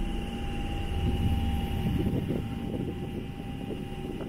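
Bakerloo line 1972 Stock train standing at the platform with its doors open, its on-board equipment humming steadily over a low rumble.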